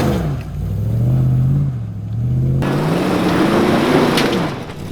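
Off-road SUV's engine revving up and easing off repeatedly under throttle as it bumps the front and then the rear wheels up a muddy rock ledge.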